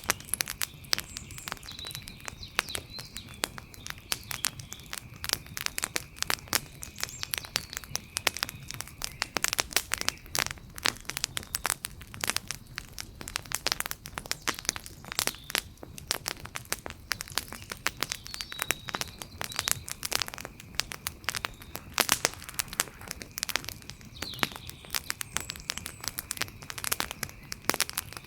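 Wood fire crackling steadily, with many sharp irregular pops and snaps. A faint steady high tone and a few faint high chirps sit underneath.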